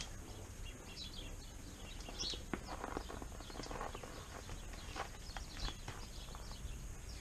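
Birds chirping here and there over a faint, steady low rumble.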